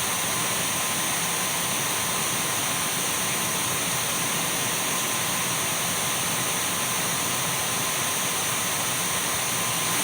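Dyson V12 cordless stick vacuum running steadily: an even rush of air with a thin high whine from its motor.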